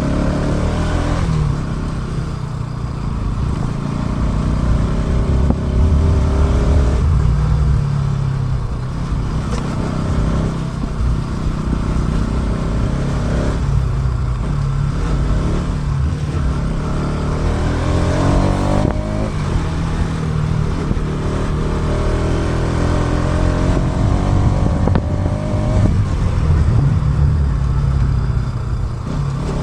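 Motorcycle engine under way, its pitch climbing and then dropping several times as it accelerates and shifts, with heavy low rumble, recorded through an action camera's built-in mic.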